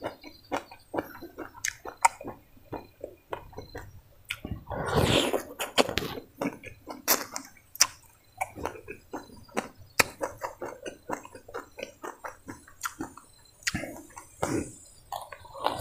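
Close-up chewing and crunching of crispy, slightly burnt rice eaten by hand, a rapid run of small crackles and mouth clicks. There is a longer, louder mouth noise about five seconds in.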